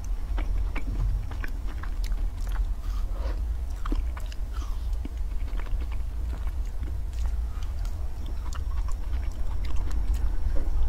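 Close-miked biting and chewing of an ice cream bar, with many small crackling clicks, over a steady low hum.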